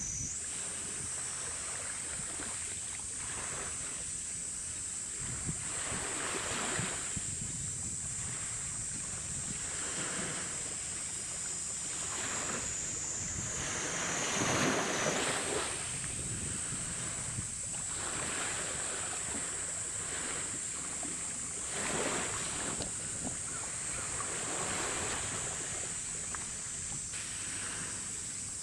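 Wind gusting on the microphone beside open water, with louder gusts about halfway through and again later. A steady high-pitched whine or buzz runs underneath.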